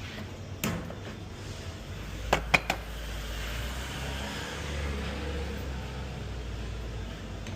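Iberital espresso machine running with a steady low hum as the first shot is brewed, the hum growing fuller about two seconds in. A knock near the start and three quick sharp clicks about two and a half seconds in.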